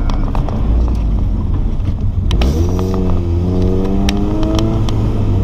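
Honda VTEC four-cylinder car engine running on the road, its note dipping and then climbing steadily from about two and a half seconds in as the car accelerates. Scattered sharp ticks throughout, which fit road rocks kicked up against the car.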